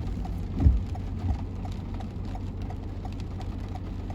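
Car cabin noise: a steady low engine and road hum, with a light ticking repeating about three times a second and a couple of low thumps near the start.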